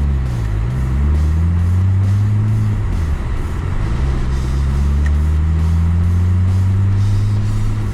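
Car engine pulling under acceleration, its pitch climbing and then dropping sharply at each gear change, three times, over steady road noise.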